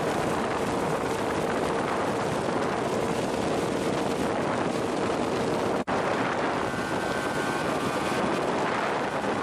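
Motorboat running at speed, its motor's drone buried under heavy wind noise on the microphone. A steady hum runs through the first part and stops at a brief drop-out about six seconds in.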